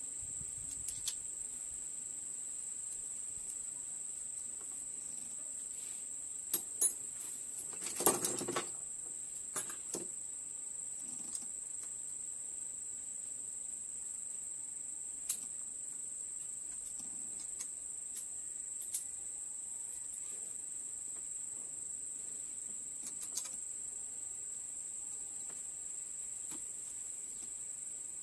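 Steady high-pitched chorus of crickets, with scattered sharp clicks and knocks, the loudest a short cluster about eight seconds in.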